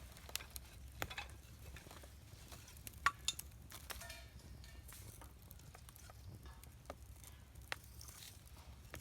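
Wood campfire burning, crackling with irregular sharp pops, the loudest pair about three seconds in, and a brief soft hiss about four seconds in.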